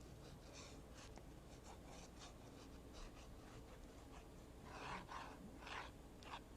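Faint rubbing and rustling of paper being glued down and pressed flat by hand, in short scratchy strokes that grow a little louder about five seconds in.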